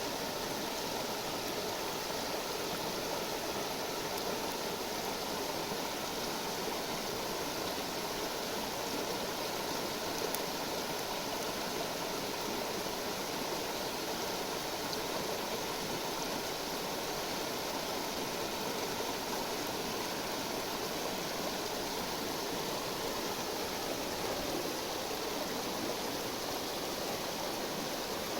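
Steady rushing of a river's flowing water, with a faint click or two.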